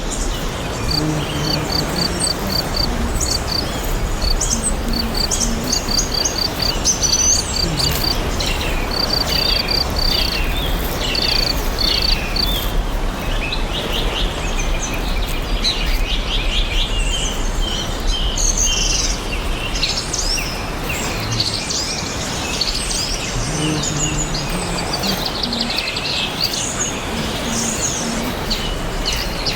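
Several songbirds chirping and singing in overlapping calls and trills over a steady background hiss. One bird repeats a short high note in quick runs during the first half.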